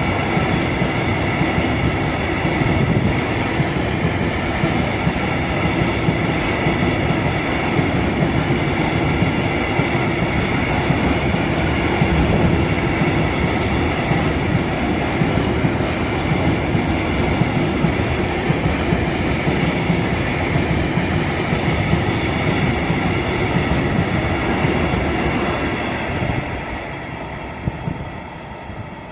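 A freight train of open coal wagons rolling through without stopping, a steady rumble of wheels on rail with a faint ringing tone above it. It fades near the end as the last wagons go by.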